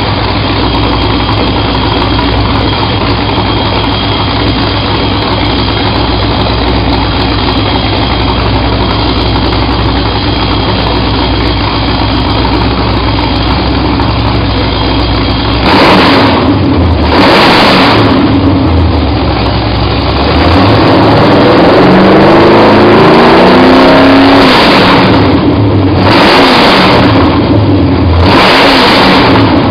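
Ford 351 Windsor V8 crate engine running: a steady idle for about fifteen seconds, then two quick revs, a longer rev that climbs and falls back, and two more short revs near the end.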